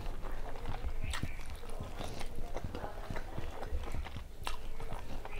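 Close-miked chewing and mouth sounds of someone eating rice and curry: irregular wet clicks and smacks, with two sharper clicks about a second in and just past four seconds.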